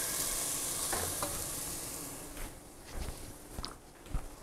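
Freshly added canned corn sizzling in hot oil in a caldero as it is stirred with a wooden spoon. The sizzle fades after about two seconds, with a few light knocks of the spoon against the pot.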